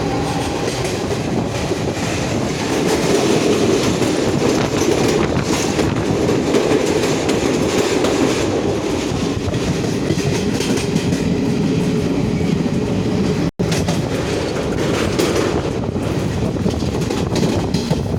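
Train running along the track: a steady, loud rumble with the clickety-clack of wheels passing over rail joints.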